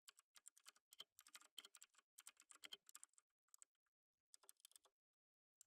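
Quiet typing on a computer keyboard: a fast, uneven run of keystroke clicks, a short burst of a few more keys after a brief pause, then a gap near the end.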